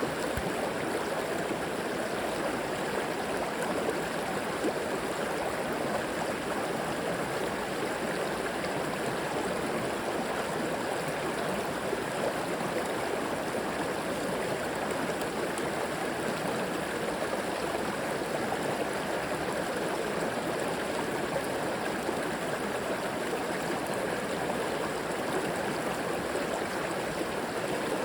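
River water flowing steadily over rocks, an even rushing with gurgling.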